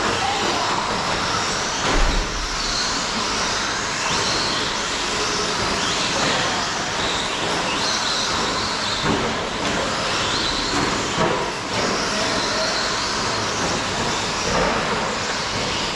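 Electric 1/10 short-course RC trucks with 17.5-turn brushless motors racing on the track, over a steady wash of tyre and track noise. Their motors whine in short rising glides, again and again, as they accelerate out of corners. There is a low thump about two seconds in.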